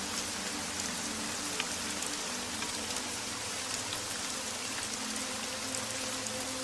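Steady rain falling, an even hiss with scattered sharp drop ticks. Underneath, soft music holds faint low sustained notes that shift a couple of times.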